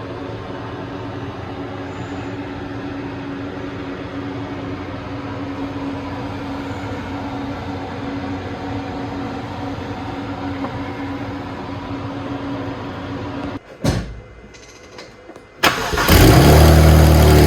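BMW N54 inline-six with a 6262G single-turbo conversion firing up near the end and settling into a loud, steady run, with a deep multi-tone drone: the engine's first start on the new turbo setup. Before that there is a steady hum, then a brief drop to quiet.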